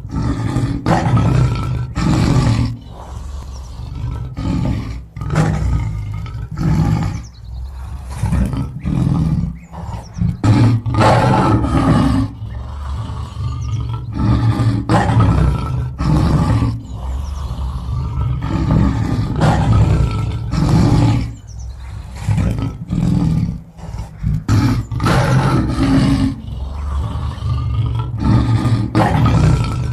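A large animal calling loudly and repeatedly, each call about a second long, with short gaps between them.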